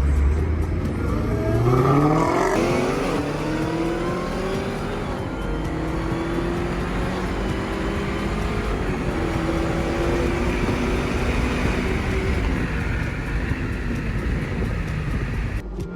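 Car engine revved hard under full throttle. Its pitch climbs steeply over the first few seconds and is then held high and fairly steady over a rushing noise, before dropping off sharply near the end.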